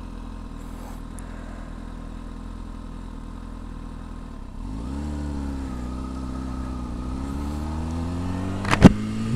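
Kawasaki Ninja motorcycle engine idling steadily, then about four and a half seconds in the revs rise as the bike pulls away and settle into a steady run. One sharp knock near the end.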